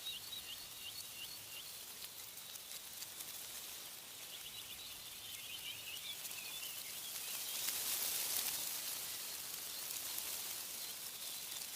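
Small songbirds chirping in quick repeated trills over a steady hiss of wind in tree leaves. The wind swells in a gust about eight seconds in.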